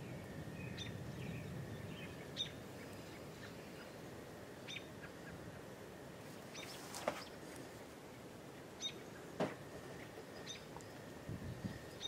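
Birds chirping now and then in short high calls over a low rumbling background, which is heaviest in the first two seconds. Two sharp clicks stand out, about seven and nine and a half seconds in.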